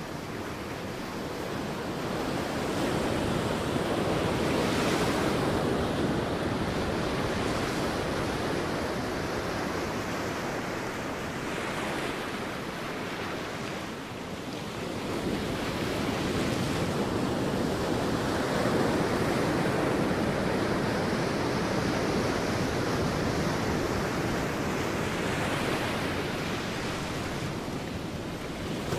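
Sea waves breaking and washing on a beach: a continuous rush of surf that swells and ebbs, dipping a little about halfway through before building again.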